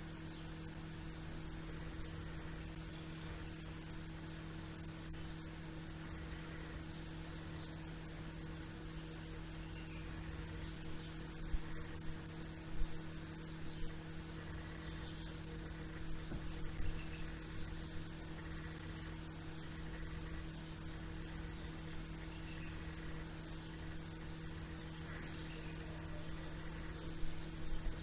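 A steady hum with a background hiss, with faint, sparse chirps of small birds now and then, a few of them a little louder about halfway through and near the end.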